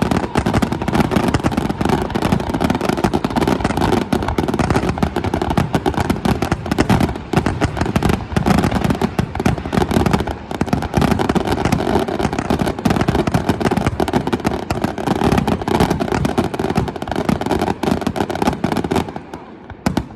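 Fireworks going off in a dense, rapid barrage of bangs and crackles, the bursts overlapping without pause, then dying away about a second before the end.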